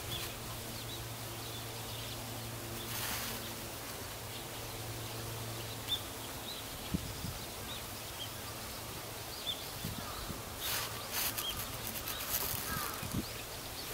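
Outdoor ambience with faint, short bird chirps scattered throughout. A steady low hum runs under the first half, and there are a few knocks and brief bursts of hiss.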